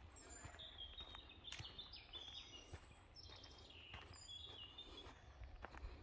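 Faint woodland birdsong: a run of short, high chirping notes, several falling or stepping down in pitch, over low wind rumble and soft footsteps on a dirt path.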